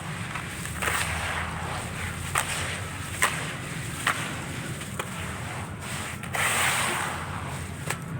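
Dry handmade gritty-textured pieces crumbling and cracking: several sharp snaps about a second apart, and two longer gritty crumbling rushes, one about a second in and one about six seconds in. A steady low hum runs underneath.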